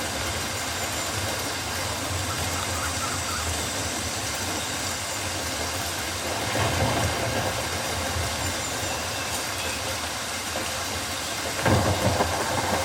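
Steady rain falling on rainforest foliage, an even hiss with a low rumble beneath, swelling louder briefly about six and a half seconds in and again near the end.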